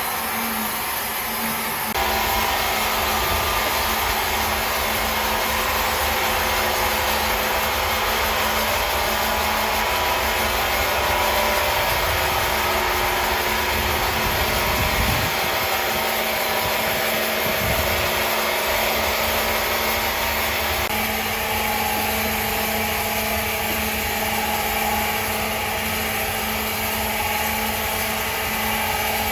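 Sawmill machinery running steadily, a loud even machine noise with faint steady tones, which deepens about two seconds in and shifts again about two-thirds of the way through.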